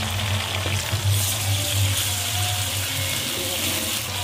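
Sliced onions and ginger-garlic paste sizzling in hot ghee in an aluminium kadai while being stirred with a wooden spoon, over a steady low hum.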